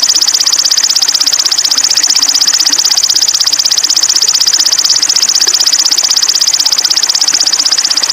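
A small songbird's rapid, steady high-pitched trill, held unbroken for several seconds: birdsong used as a masteran recording for training caged sogon birds.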